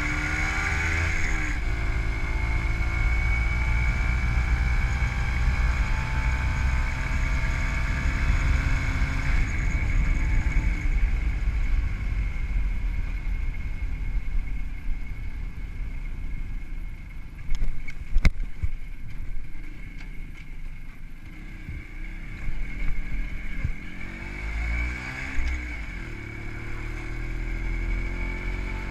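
WSK 125 two-stroke single-cylinder motorcycle engine, fitted with a Dellorto PHBG carburettor and CDI ignition, running under way. The revs rise and fall through gear changes, ease off for a long quieter stretch with one sharp click, then climb again through the gears near the end.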